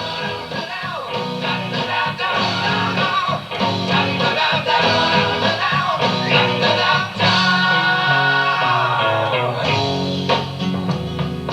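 Rock record playing an instrumental break between verses, led by guitar over the band.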